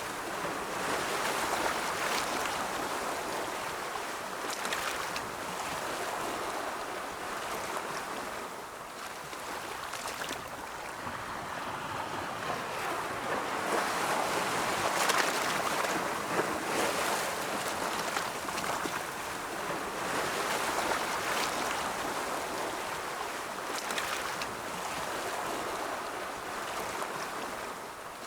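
Ocean waves rolling in and washing on a shore, a steady rush of surf that swells and eases over several seconds, loudest about halfway through.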